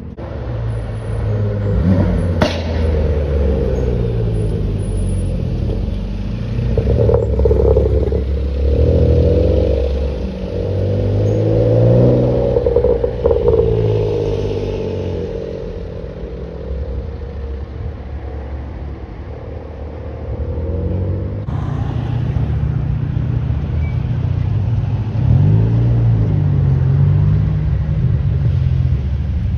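Modified cars' engines running and revving as they drive past, the engine note rising and falling several times. There is a sharp crack about two seconds in, and after an abrupt change past the two-thirds mark a steady engine note carries on.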